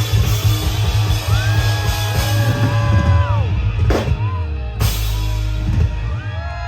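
Live rock band playing loudly: drum kit and heavy bass with guitar lines, two sharp hits about four and five seconds in. The music eases off near the end.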